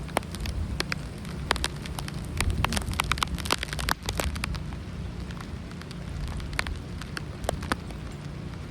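Rain falling steadily, with many sharp drops tapping close by, thickest in the first half, over a low rumble.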